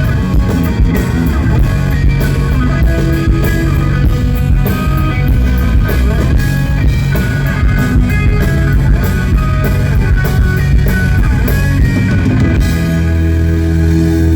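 Live hard rock band playing an instrumental passage on distorted electric guitars, with bass and a drum kit hitting steadily. Near the end the drums stop and a held chord rings on.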